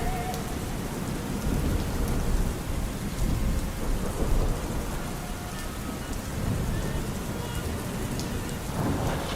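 Steady rain with a low, rolling rumble of thunder. Faint, muffled opera singing with vibrato fades out just after the start and returns near the end.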